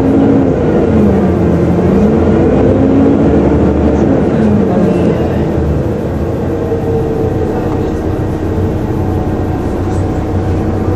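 Volvo B7TL bus's 7-litre six-cylinder diesel and drivetrain heard from on board, with a whining 'hoover' note. The tones rise and fall as the bus changes speed through the first half, then settle into a steady drone.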